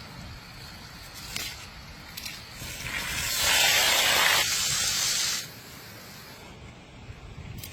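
A steady hiss lasting about two and a half seconds, starting a little under three seconds in and stopping suddenly, over a fainter background rush.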